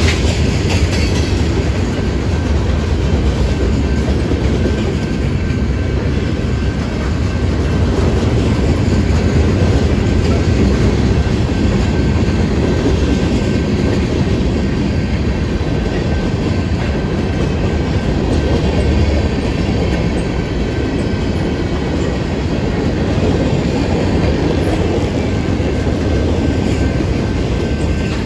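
Freight cars of a long freight train, tank cars and boxcars, rolling past close by: a loud, steady rumble of steel wheels on rail with some clickety-clack.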